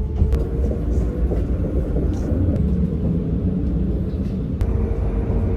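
Passenger train running, heard from inside the carriage: a steady low rumble with a faint steady hum and a couple of brief clicks.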